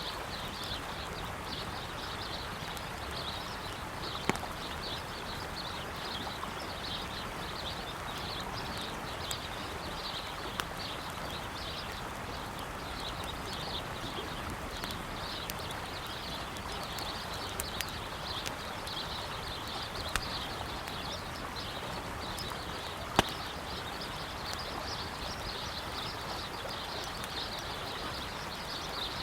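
Wood campfire crackling, with a few sharp pops (the loudest about three quarters of the way through), over the steady rush of a flowing river and continuous high-pitched bird chirping.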